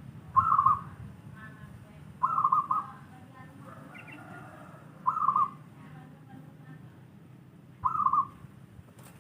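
Zebra dove (perkutut) cooing: four short, trilled coos spaced two to three seconds apart. Faint chirps from other birds are heard between the coos, over a low background rumble.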